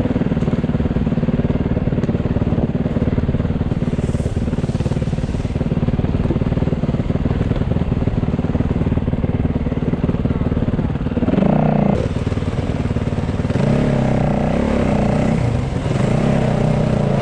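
Enduro motorcycle engine running steadily. In the last six seconds or so it revs up and down several times.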